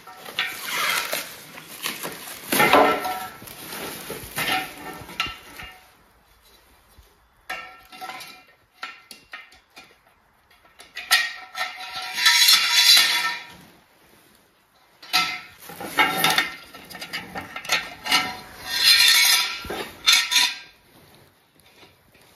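Guardrail parts clinking and rattling against each other as they are handled and fitted together. The sound comes in three bouts of clattering with some short metallic ringing, separated by quieter stretches of scattered clicks.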